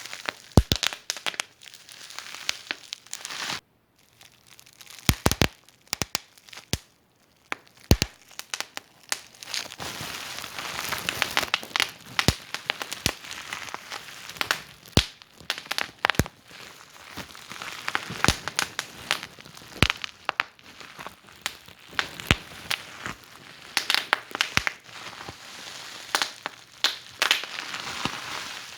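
Wood fire in a fireplace crackling, with irregular sharp pops and snaps over a soft hiss. The sound drops out almost completely twice near the start.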